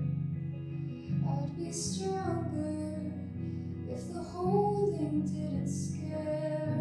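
A solo singer singing a slow song, accompanied by a guitar playing sustained low notes.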